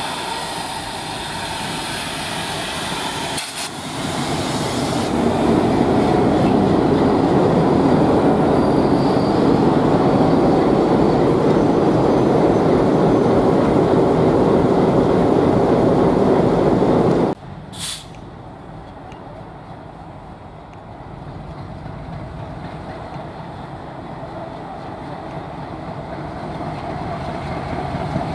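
Diesel-hauled passenger train, led by WDG-3A diesel locomotives, passing close by: locomotive engines and then the coaches' wheels running over the rails. It is loudest in the middle and cuts off abruptly about 17 seconds in. After that a diesel locomotive is heard approaching, its engine sound growing louder near the end.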